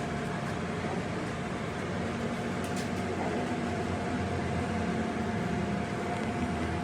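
A workshop machine running steadily: a constant hum with a thin, even whine above it.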